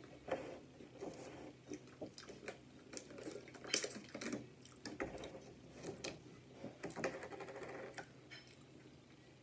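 Close-miked chewing and mouth sounds of someone eating pancakes, with scattered light clicks. A plastic water bottle is picked up and set down about halfway through, its plastic crinkling.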